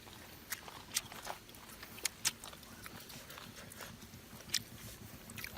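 Eating sounds at a meal: irregular sharp clicks and taps, about seven spread over a few seconds, over a faint low rustle.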